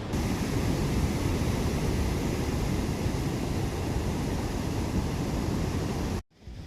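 Steady rushing noise of wind buffeting the microphone over the sea at the shore, heaviest in the low end. It cuts off abruptly near the end and comes back quieter.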